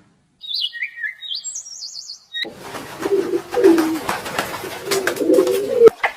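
Birds calling: about two seconds of high, quick chirps, then a lower warbling call with scattered clicks and rustles.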